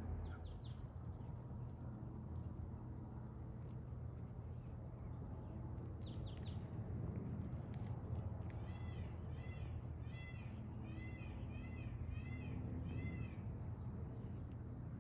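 A bird calls a run of about ten short, arched, high notes, about two a second, for about five seconds starting a little past halfway, over a faint low steady rumble of outdoor ambience.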